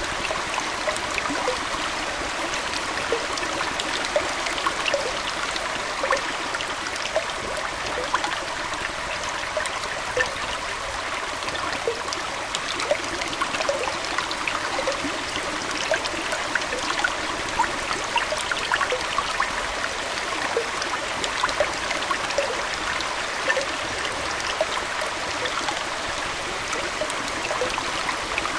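Aquarium water flowing and trickling steadily, with many small droplet plinks throughout.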